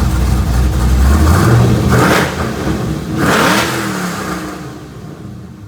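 Car engine revving, with two swells in speed, cutting in abruptly and fading away over the last couple of seconds.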